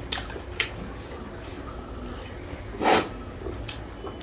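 Eating sounds while chewing roast chicken: scattered small wet clicks and mouth noises, with one short breathy puff about three seconds in.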